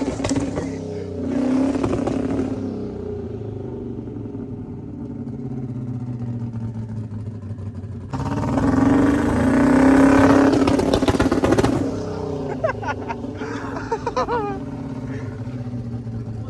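Car engine running, with a louder stretch in the middle where the revs rise and fall; a few faint voices come in near the end.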